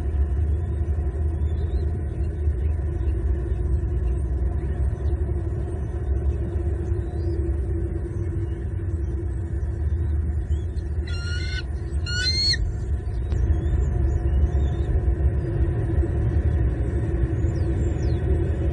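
Bald eagle giving two short, rapidly pulsed chittering calls about a second apart, a little past the middle, over a steady low rumble.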